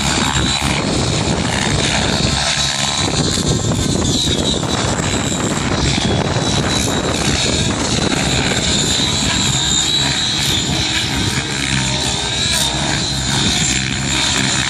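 Radio-controlled model helicopter flying, its motor and rotor giving a steady high whine over a dense rushing noise.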